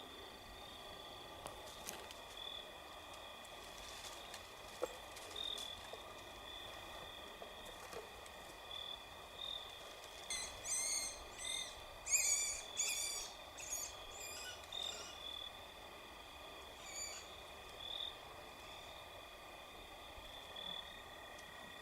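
Evening insect and frog chorus with steady high trilling tones. A bird gives a quick run of high, harsh, repeated calls about halfway through, and a couple more shortly after.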